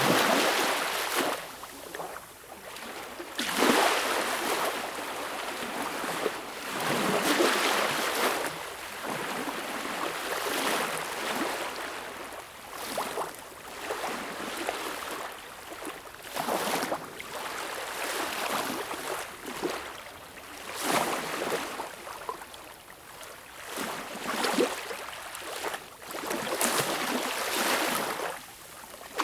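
Small sea waves washing in, a surge of rushing, hissing water every three to four seconds with little deep rumble.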